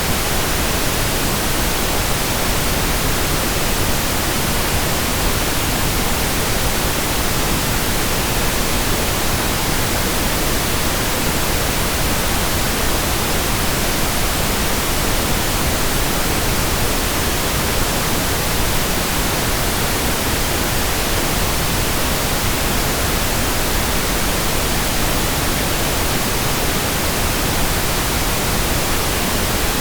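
Steady synthetic pink noise: an even, unbroken hiss spread across all pitches, with no change in level.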